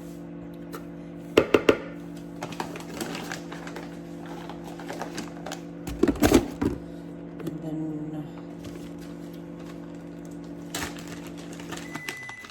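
Small clicks and knocks from measuring spoons and utensils, the loudest about a second and a half in and again around six seconds. Underneath is a steady hum from a kitchen appliance, which stops near the end.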